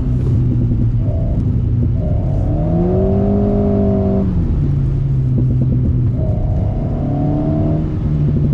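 Alpine A110's turbocharged four-cylinder engine through a BDA Racing Track Evo stainless exhaust, heard under hard driving: the revs climb, drop suddenly about four seconds in, then climb again near the end.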